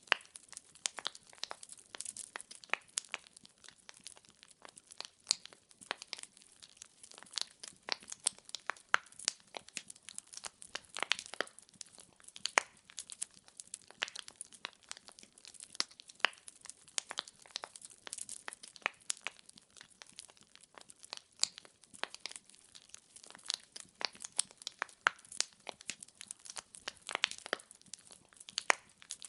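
Wood fire in a fireplace crackling: a dense, irregular stream of sharp pops and snaps from burning firewood, with little low roar beneath.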